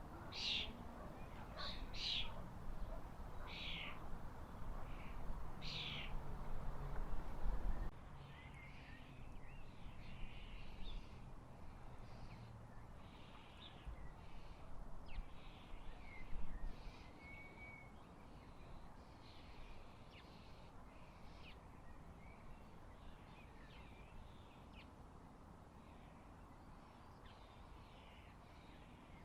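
Garden birds calling: a run of loud, harsh calls in the first few seconds, then, after a cut, a stretch of fainter, shorter calls and chirps.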